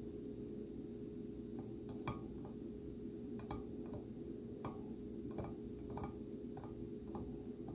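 Light, irregular clicks and taps of small hand tools against a circuit board during SMD chip soldering, about a dozen in all, over a steady low hum.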